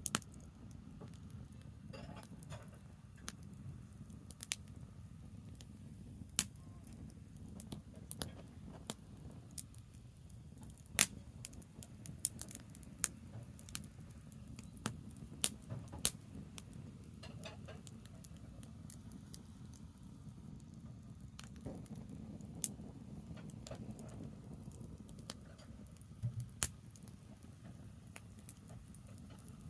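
Campfire of burning branches crackling, with irregular sharp pops and snaps over a steady low rumble.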